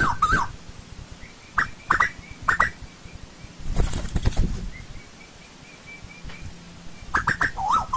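Asian koel calling: a fast run of short rising notes that stops about half a second in, a few scattered notes after it, and a new run starting near the end. A brief noisy burst comes midway.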